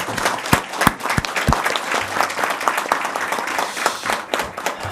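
A room of people applauding, many hands clapping together, dying away near the end.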